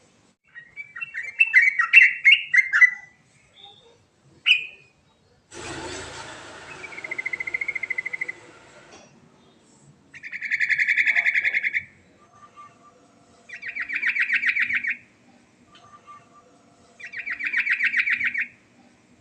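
Yellow-vented bulbul (trucukan) singing: a quick string of varied chirps, then three separate rattling trills, each over a second long and a few seconds apart. A burst of noise with a whistled note in it comes about six seconds in.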